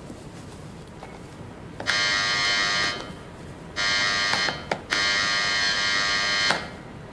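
Electric door buzzer pressed three times: a one-second buzz, a shorter one, then a longer buzz of about a second and a half.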